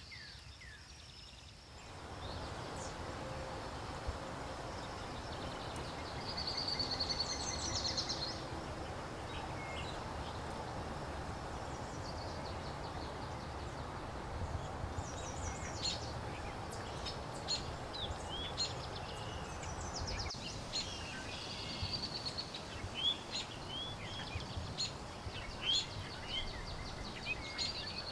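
Wild birds singing, with short high chirps and a few trills, over a steady background rush that comes in about two seconds in.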